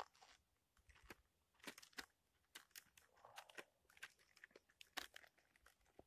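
Vegetables being cut and handled for the pan: faint, irregular crunchy cuts and clicks.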